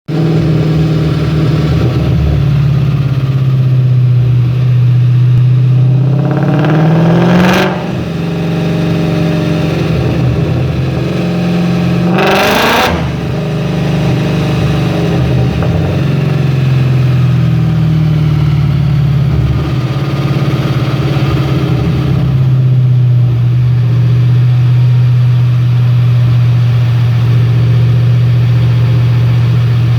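2011 Ford Mustang GT's supercharged 5.0 V8 (ProCharger) running on a chassis dyno at steady revs. It revs up briefly twice, each rise cut off by a short sharp rush of noise as the revs drop back.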